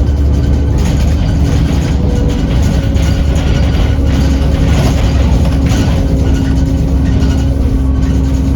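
Diesel bus engine and drivetrain heard from on board while driving, a steady heavy drone with a steady whistle from the turbocharger running over it.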